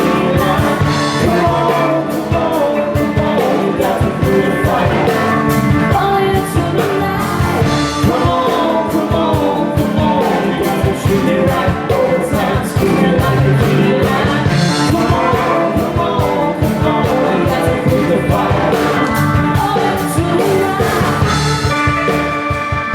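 Live rock and blues band playing a song: a steady drum beat and electric guitar under a bending lead melody, with a held chord ringing out near the end.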